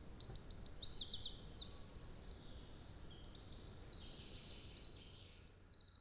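Birds singing: quick, high chirps and trills in overlapping phrases, fading out near the end.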